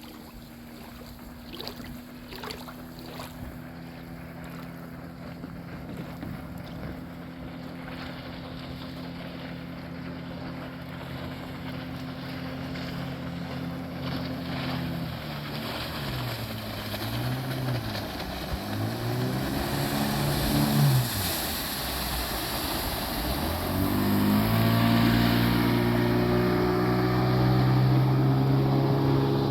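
An engine running steadily, then slowing and speeding up several times, and finally speeding up and holding at a higher, louder pitch for the last few seconds.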